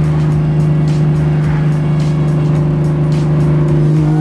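Single-turbo BMW 135i's inline-six engine held at a steady high rev with the JB4 anti-lag engaged to build boost; near the end the pitch starts to rise as it pulls away under full throttle.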